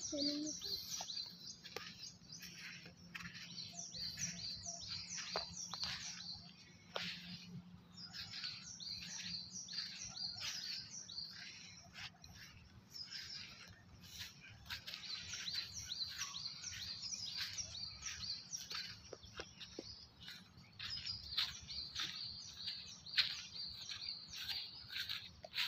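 Birds chirping: runs of quick, high, downward-sweeping chirps, several a second, broken by short pauses and starting up again.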